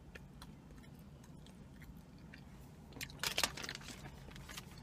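Mouth chewing a crunchy sesame seed brittle cookie, faint at first. About three seconds in comes a burst of sharp crackling, with more crackling near the end.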